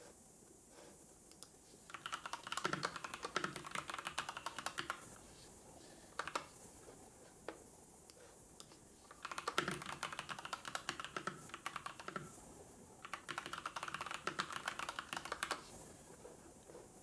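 Computer keyboard typing in three bursts of rapid keystrokes, each a few seconds long, with a couple of single clicks in between.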